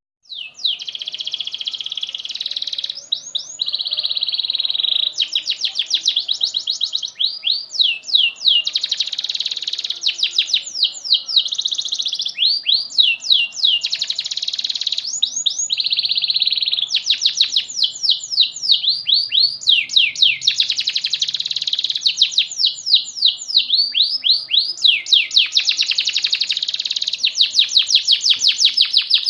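Canary singing a long, nearly unbroken song of fast trills and rapid downward-sweeping notes, high-pitched, starting a moment in and hardly pausing.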